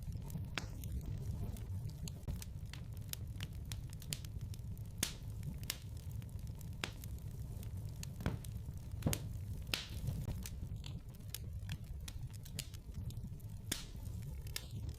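Wood fire burning in a fireplace: a steady low rumble with scattered sharp crackles and pops, a few louder snaps among them.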